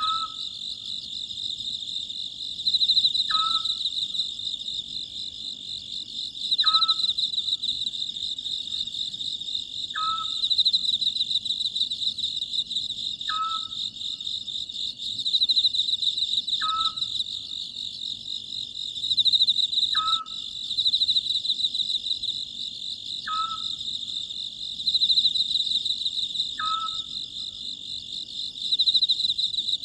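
Oriental scops owl calling, a short call repeated about every three seconds, over a steady chorus of crickets.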